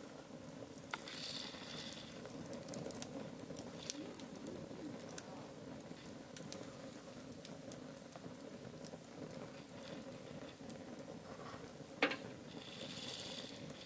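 Wood campfire crackling: scattered sharp pops and ticks over a steady low rush, with one sharper pop about twelve seconds in.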